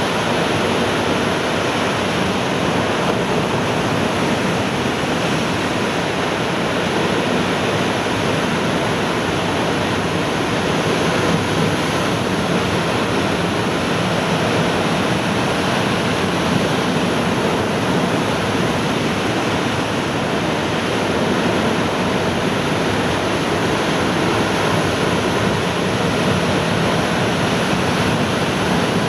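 Heavy ocean surf raised by an approaching typhoon's swell, breaking waves heard as a continuous, even rush of water.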